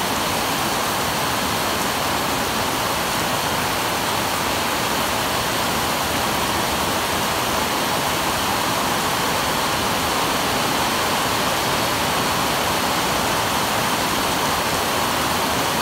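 Heavy rain falling steadily: an even, unbroken hiss of a downpour with no let-up.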